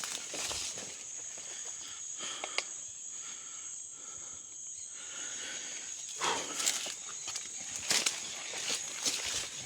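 Footsteps and rustling through forest leaf litter and undergrowth, irregular crunches and swishes that grow busier about six seconds in. Under them runs a steady high-pitched buzz of rainforest insects.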